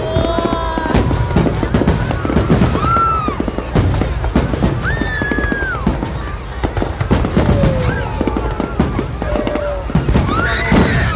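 A fireworks display with rapid bangs and crackling shells bursting. People's voices call out over the bursts.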